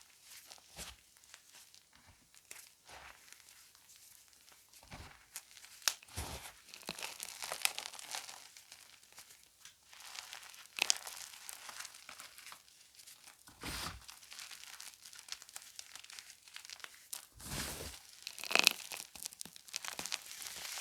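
Gym chalk being crushed and crumbled close to the microphone: irregular dry crunches and crackles, with a few sharper crunches, the loudest near the end.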